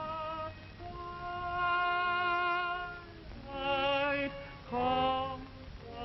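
Operatic-style singing with a strong vibrato: one long held note about a second in, then two shorter notes near the end.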